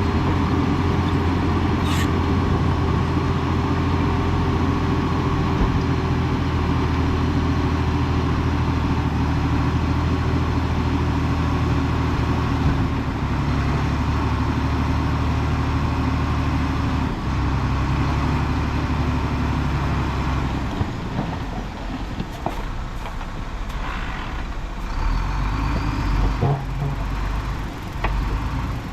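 Heavy diesel engine of earthmoving machinery running steadily, its note changing and easing off about two-thirds of the way through, with a few knocks and clanks near the end.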